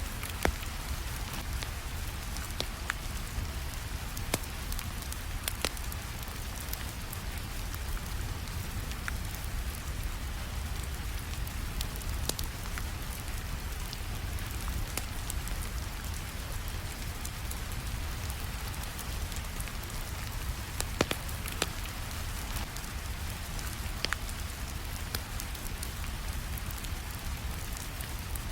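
Steady rainfall with a fireplace crackling over it: a constant hiss of rain, broken by irregular sharp pops and snaps from the burning wood.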